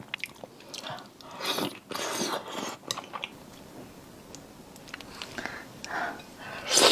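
A person chewing seafood close to the microphone: wet, crunchy mouth sounds with a few sharp clicks. The loudest stretch comes about one and a half to three seconds in.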